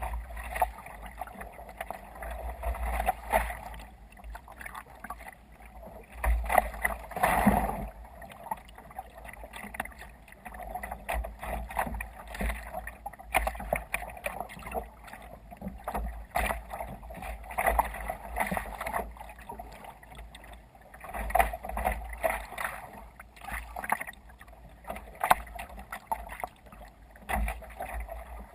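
Water splashing and sloshing irregularly against a sea kayak's hull as it moves through waves, in uneven surges over a low rumble.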